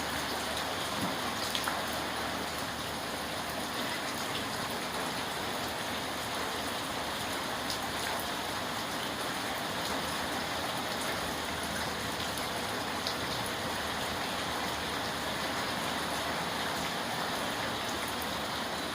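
Steady rain falling, an even wash of water sound with the odd sharper drop tick standing out.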